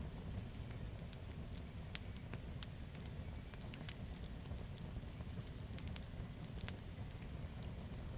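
Campfire burning, with many irregular sharp crackles and pops of the burning wood over a low steady rumble.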